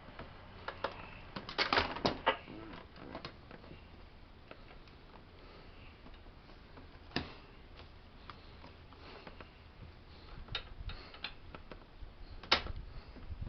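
Scattered clicks and knocks of tools and hardware being handled during a recliner repair: a quick cluster about two seconds in, then single knocks spaced out, the loudest near the end.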